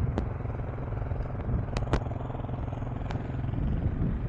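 KTM 390 Enduro R's single-cylinder engine running steadily, with a few sharp clicks over it.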